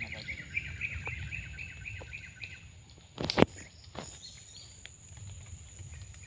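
A bird calling a fast run of repeated chirps for the first two and a half seconds, over a steady high-pitched insect drone. A brief loud noise cuts in about three seconds in.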